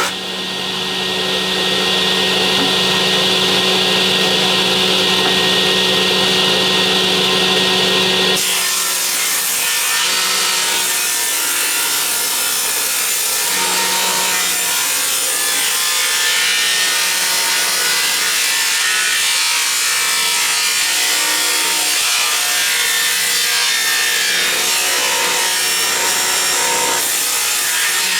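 Electric power tool working timber, its motor running steadily under load. About eight seconds in, the sound turns rougher and noisier, and the motor hum comes and goes after that.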